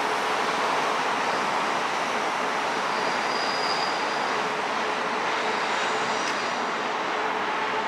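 Train rolling along the tracks with a steady rail and running noise, and a faint high wheel squeal about three seconds in.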